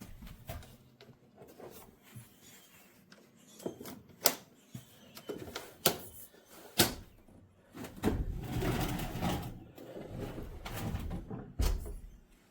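Handling noise: a few separate clicks and knocks, then several seconds of rustling and shuffling, ending with a thump near the end.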